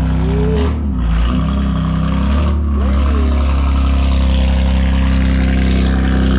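BMW F80 M3's S55 twin-turbo straight-six idling steadily and loudly through catless downpipes, a single mid-pipe and an open valved axle-back exhaust. Two brief whistling glides rise and fall over the idle, one near the start and one about three seconds in.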